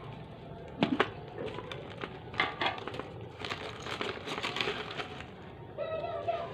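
Cats eating: irregular crunching and clicking of food being chewed and picked at, with a short high-pitched kitten meow near the end.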